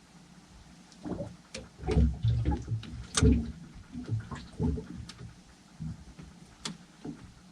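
Irregular knocks and thumps on a small fishing boat, as gear and the catch are handled on deck, with a few sharp clicks among them.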